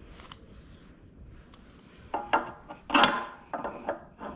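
Sharp metal knocks and scrapes on a lawn mower's tight, stuck fuel cap as it is forced loose, starting about two seconds in, with the loudest knock a second later.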